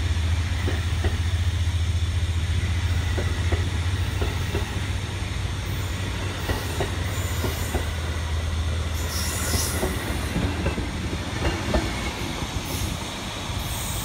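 Amtrak passenger train hauled by a P42DC diesel locomotive pulling out of the station. The locomotive's low engine drone fades after a few seconds, while the wheels click over the rail joints with brief high wheel squeals, the loudest about nine to ten seconds in.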